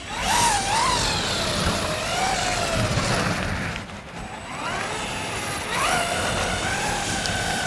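Traxxas Ford Raptor R VXL RC truck's brushless motor whining as the truck is throttled on a wet surface: the pitch rises quickly, sinks and falls away around the middle, then climbs again and holds steady near the end, over a hiss of wet tires.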